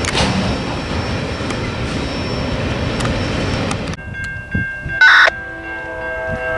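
Train cars rolling past on the rails with occasional wheel clicks. After an abrupt cut, a diesel locomotive horn sounds a steady chord, with a short, much louder burst about a second after it starts.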